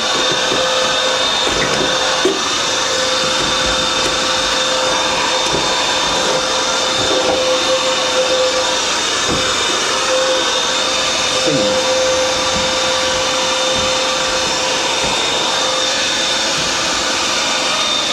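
Vacuum cleaner running steadily with a constant whine, its nozzle sucking lint and fluff out of a tumble dryer's insides. Now and then the nozzle knocks and scrapes against the dryer.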